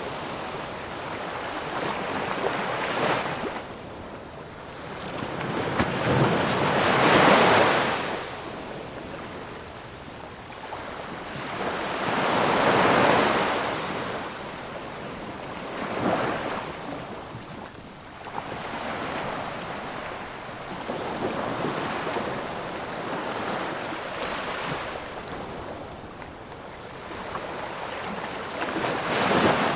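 Ocean waves breaking and washing up the shore, the surf swelling to a loud rush and falling back every few seconds, with the biggest breakers about 7, 13 and 29 seconds in.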